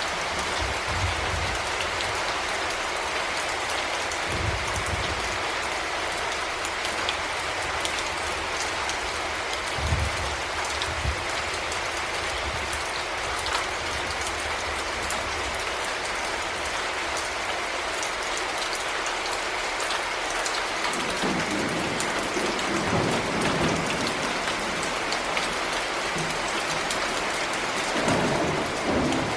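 Heavy rain falling steadily, with a few short low rumbles, the strongest about ten seconds in and near the end.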